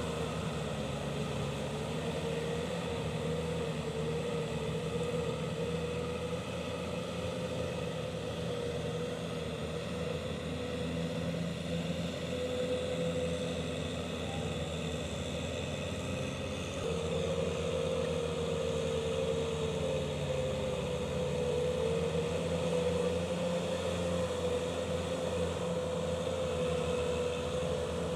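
Kubota M6040SU tractor's diesel engine running steadily, with a whining tone over it that rises a little past halfway.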